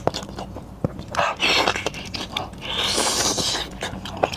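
Close-miked eating of goat head meat: wet chewing and mouth clicks, broken by two longer noisy sucking sounds, one about a second in and one past the middle.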